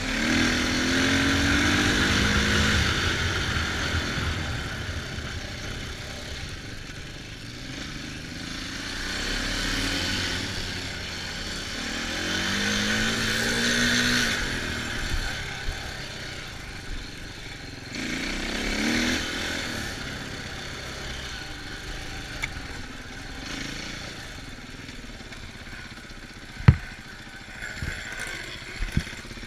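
Dirt bike engine revving up and easing off in three surges while riding, over a steady rushing noise. A few sharp knocks sound near the end.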